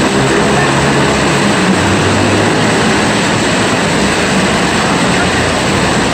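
Heavy rain pouring down, a loud, steady, unbroken noise.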